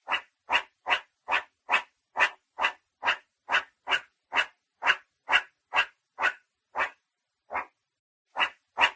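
An animal calling in a fast, even series of short, harsh calls, about two and a half a second, with a brief break near the end.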